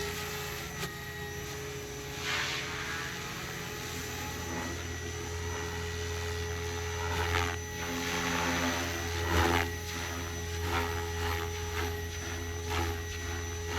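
Electric 700-class RC helicopter with a three-blade main rotor in flight, the rotor and motor giving a steady whir over a constant low hum, swelling louder a few times.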